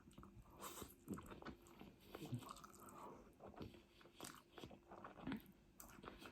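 Faint close-up eating: chewing and biting with small crunches, in irregular clicks and smacks.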